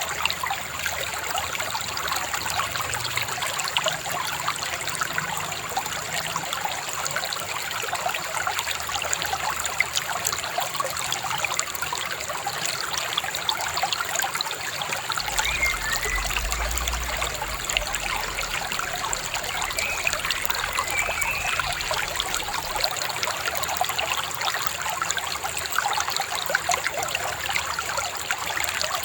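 Shallow river babbling and trickling in a steady, even rush, with a few faint bird chirps in the middle.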